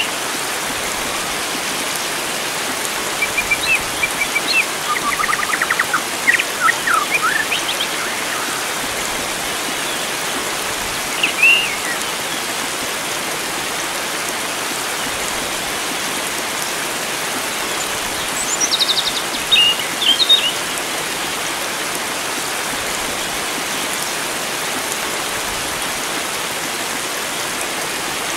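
Steady rush of flowing water, with wild songbirds calling over it now and then. A run of quick chirps and trills comes a few seconds in, a single short call near the middle, and a few more calls about two-thirds of the way through.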